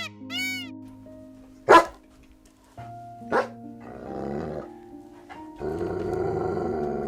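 An animal growling over background music: a short rough growl about four seconds in, then a longer, louder one near the end, with two sharp cracks before them.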